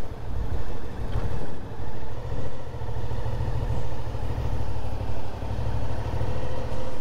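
Suzuki V-Strom 650's V-twin engine running at low speed through a slow U-turn manoeuvre, its level swelling and dipping about once a second.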